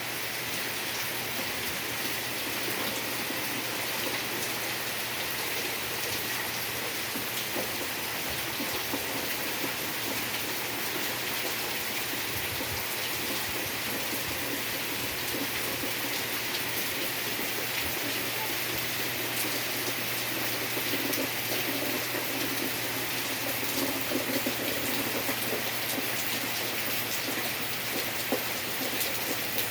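Torrential tropical rain falling steadily in a dense, even hiss, with the patter of drops on surfaces, a little louder about two-thirds of the way through.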